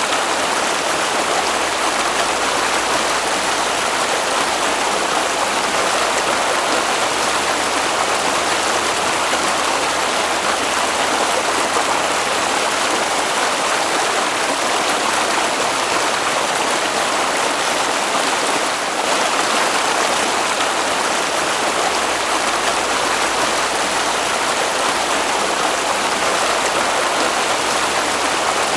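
Water of a stream or brook flowing, a steady even rushing without a break.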